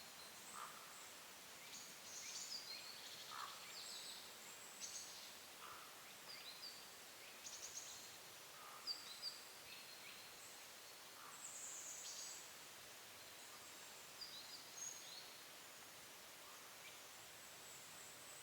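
Faint woodland ambience with small songbirds giving short, thin high-pitched calls scattered throughout, and a lower chirp repeating every two to three seconds.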